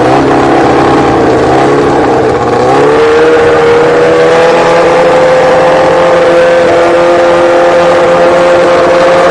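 Drag-racing motorcycle engine at high revs. Its pitch climbs twice, just after the start and again about three seconds in, then holds almost steady, creeping slowly higher.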